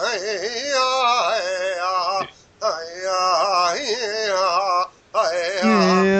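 A man chanting wordless vocables in mock imitation of a powwow song, heard over a voice call. His voice wavers up and down in phrases with two short breaks, and near the end he holds one long steady note.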